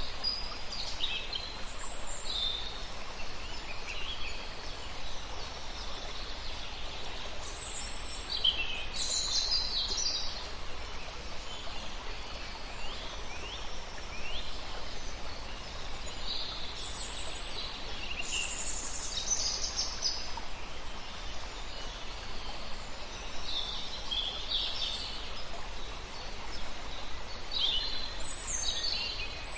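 Wild birds singing and calling: short high chirps, whistles and trills, several birds overlapping, coming every second or two over a steady background hiss.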